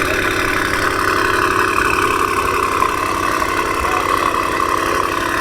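Audi RS5 engine idling steadily.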